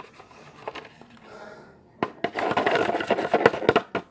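Scraping and rustling from working a soap-and-salt slime mixture by hand: faint scattered clicks at first, then about two seconds of dense, louder scraping starting about two seconds in.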